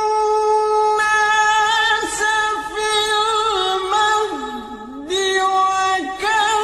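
Male qari's voice reciting the Quran in the melodic murattal/tilawah style, drawing out one long ornamented note with rapid melismatic turns. The pitch sinks low about two thirds of the way through, then climbs back to the held tone.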